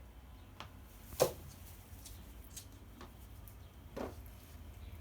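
A bird pecking at cat food in a bowl: a few sharp irregular taps, the loudest about a second in and another near four seconds.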